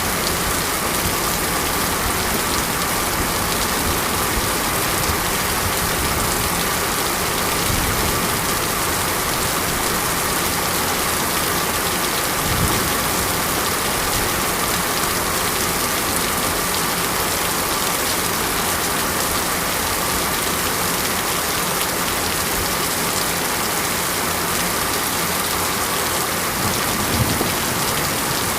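Steady heavy monsoon rain falling, a dense even hiss, with a few brief low thumps scattered through it.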